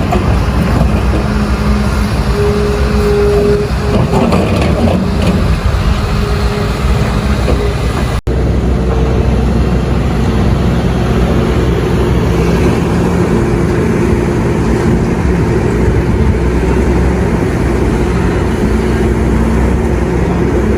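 Doosan DX300 excavator's diesel engine running steadily under working load, heard from the operator's cab, its tones shifting in pitch as the hydraulics take load through the loading cycle. The sound drops out suddenly for an instant about eight seconds in.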